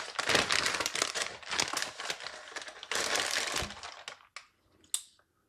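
Plastic packaging crinkling and rustling as a motherboard is unpacked by hand, dying away after about four seconds into a few light clicks, one sharper click near the end.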